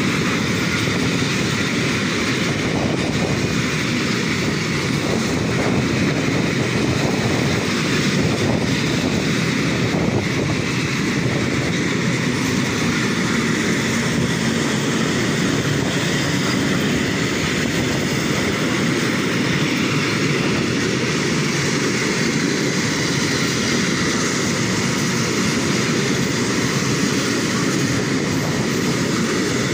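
Freight train of tank wagons passing, their steel wheels running on the rails in a steady, unbroken noise.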